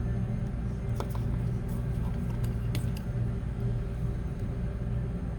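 Steady low hum with a few faint light clicks, about one and three seconds in, as small phone parts are handled on the repair bench.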